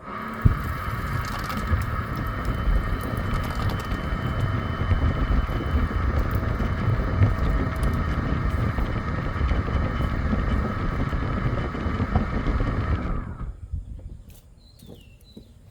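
Leaf blower blasting air through a dryer vent line to clear out lint: a steady rush of air with a fan whine, cutting in suddenly and winding down about thirteen seconds in.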